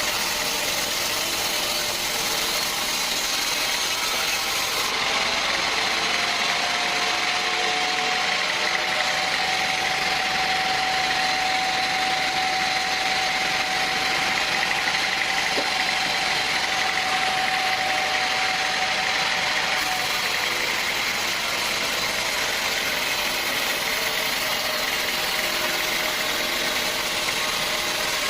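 Sawmill machinery running steadily, with a held whining tone in the middle that lasts about fifteen seconds.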